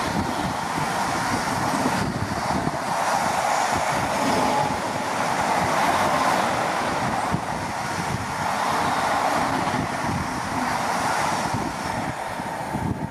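Container freight train wagons rolling past at speed: a steady rush of wheels on rail, easing slightly as the last wagons clear near the end.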